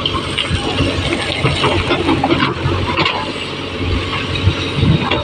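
JCB backhoe loader's diesel engine running steadily, with a few short knocks and clanks from the machine working.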